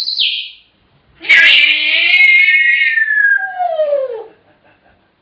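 African grey parrot calling: a short high squawk that drops in pitch, then a long drawn-out call of about three seconds that slides down in pitch at the end.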